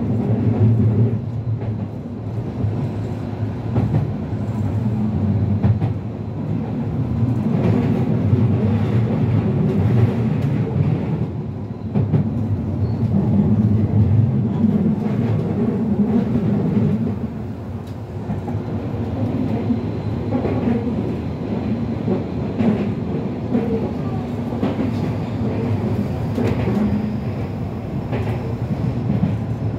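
Tokyu Toyoko Line electric train running along its track, heard from inside the rear cab: a continuous running noise of wheels on rail that swells and eases as it goes.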